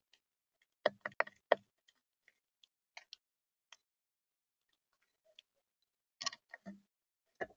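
Beaks tapping and pecking on a bird feeder: scattered sharp clicks, a quick run of four about a second in, a few faint single ticks, then another short run near the end.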